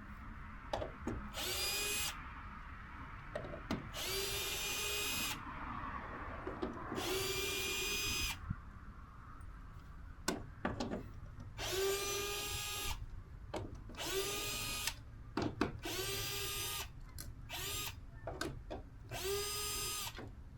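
Power drill running in short bursts of about a second each, about eight times, the motor pitch rising as each burst starts, with small clicks and knocks between bursts.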